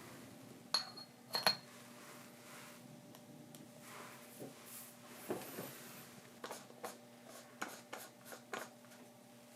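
Light clinks and clicks of small hard metal or glass pieces being handled: two sharp ringing clinks about a second in, then a string of smaller clicks and taps near the end.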